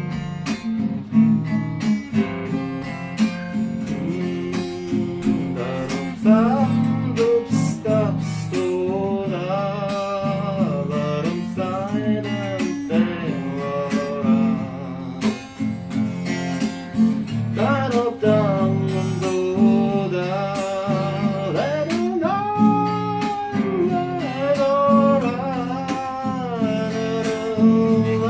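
Song accompaniment on acoustic guitar, chords played in a steady rhythm. From about six seconds in, a gliding, wavering melody line is carried over the guitar, without words.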